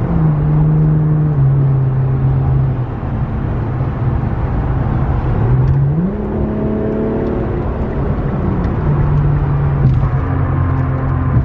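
Infiniti Q50's muffler-deleted V6 exhaust droning inside the cabin under way. The engine note drops about a second in, climbs steeply around six seconds in as the car accelerates, and falls back again near nine seconds.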